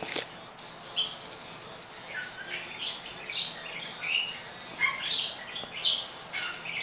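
Small birds chirping repeatedly: short, high chirps of varying pitch, some sliding, thickest near the end. There is a single sharp click at the start.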